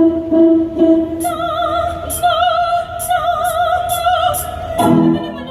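Operatic soprano voices holding a long high note with wide vibrato over backing music with a steady light tick about twice a second; a new lower phrase comes in near the end.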